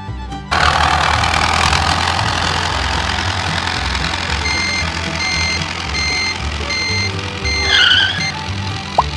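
Engine of a small construction vehicle running with a low, steady rumble. From about four and a half seconds in, a reversing beeper sounds about twice a second for roughly three seconds. A short squeal comes near the end.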